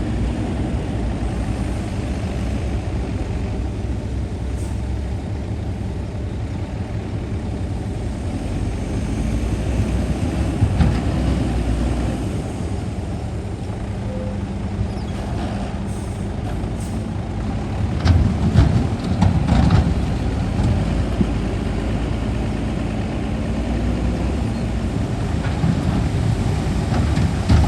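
Heavy diesel earthmoving machinery running steadily, with bursts of clanking and knocking about ten seconds in, in the middle and again near the end.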